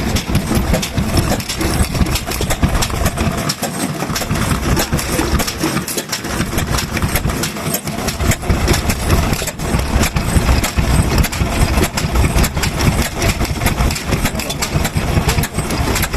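Vintage stationary kerosene engines running, with a dense, uneven stream of exhaust beats over a low, steady rumble.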